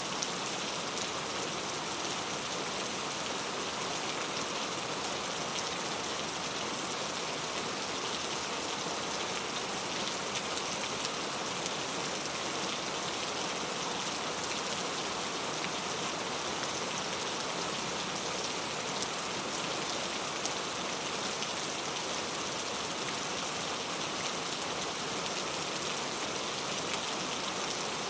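Steady rain ambience: rain falling in an even, unbroken hiss with faint scattered drop ticks.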